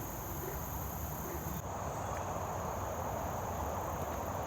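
Outdoor insect chorus, steady high-pitched trilling of crickets or similar insects in two pitches; the highest one stops about a second and a half in.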